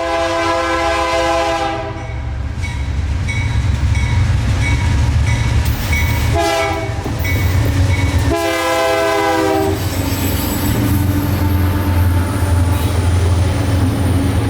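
Diesel-hauled freight train passing close by, its air horn sounding a long blast, then a short one and another long one over the constant low rumble of the locomotives. A steady high-pitched whine comes in over the last few seconds.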